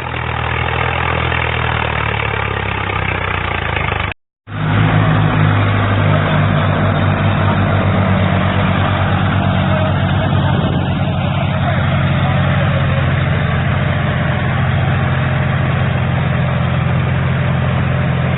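Tractor diesel engine running steadily with a low, even throb. The sound cuts out completely for a moment about four seconds in, then the engine carries on.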